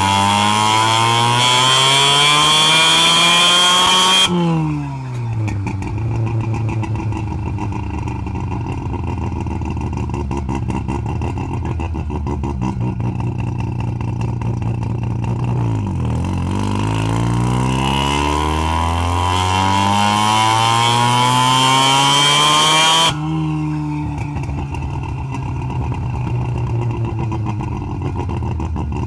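Half-bridgeported Mazda 12A rotary engine pulling hard with a rising pitch, then the throttle snaps shut about four seconds in and the revs fall slowly for some ten seconds. A second long climb in revs follows, cut off sharply near the end by another lift off the throttle, after which the engine runs at lower revs.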